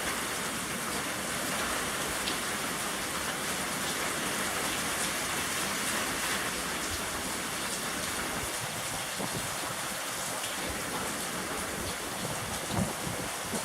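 Rain falling steadily, an even hiss of drops. Near the end, gusts of wind begin to rumble on the microphone.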